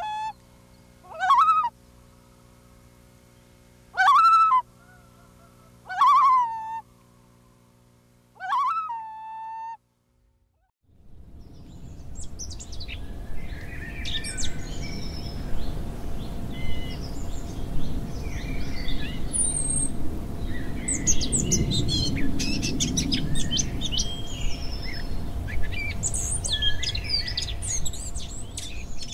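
Wild birds calling. First comes a series of loud, short calls about two seconds apart, each swooping sharply up and then holding. After a brief break, a busy chorus of songbird chirps and trills plays over a low, steady outdoor rumble.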